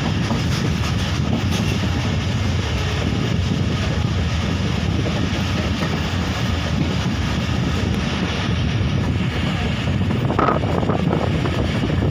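Passenger train running along the line, heard from an open coach doorway: a steady rumble of wheels on rail with wind blowing on the microphone.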